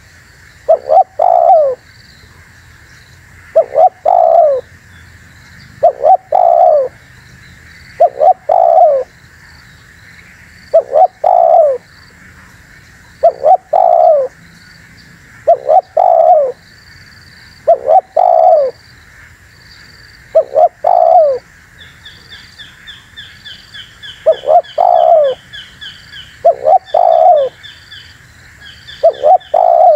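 Spotted dove (tekukur) cooing over and over, one short multi-note phrase about every two seconds. From about 22 s a faint, rapid high-pitched twittering of a smaller bird runs beneath the coos.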